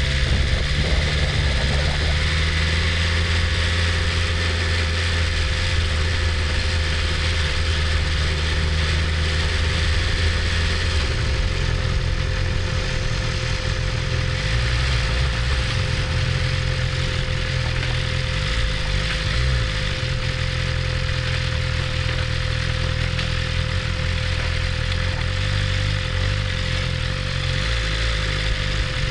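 BMW S1000RR's inline-four engine running steadily at a low, even note, shifting slightly about eleven seconds in, with a constant thin whine above it.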